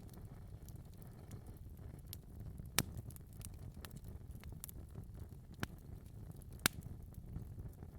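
Wood fire crackling in a fireplace: a low steady rumble of flames under scattered small pops, with three sharper snaps, the loudest near the three- and seven-second marks.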